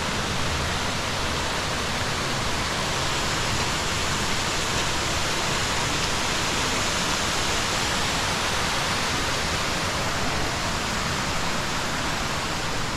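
Rushing water of a mountain stream: a steady, even hiss that does not change.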